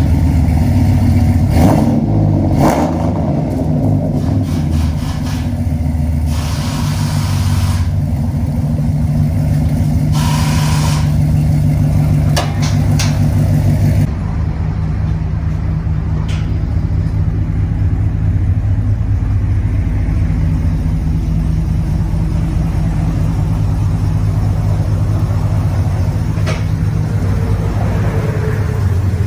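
Chevrolet Silverado SS's 6.0-litre V8, breathing through long-tube headers and an aftermarket exhaust, revs briefly in the first few seconds and then settles into a steady idle.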